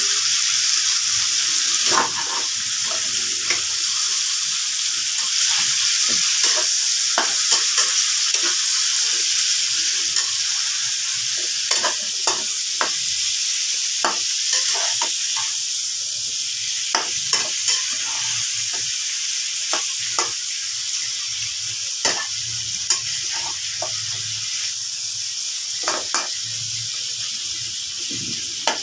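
Food sizzling steadily in hot oil in a pan while it is stirred, with a utensil clicking and scraping against the pan many times.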